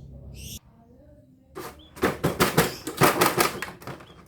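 Toy or its plastic packaging being handled: a rapid run of sharp clicks and crackles starting about a second and a half in and lasting about two and a half seconds.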